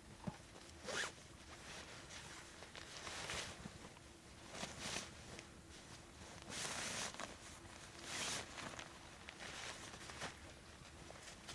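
A zipper pulled in a series of short strokes, about eight spread across the stretch, the longest about two-thirds of the way through.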